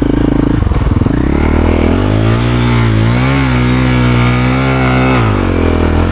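Motorcycle engine under throttle: low, chugging revs climb sharply about two seconds in, hold high for about three seconds, then fall back near the end.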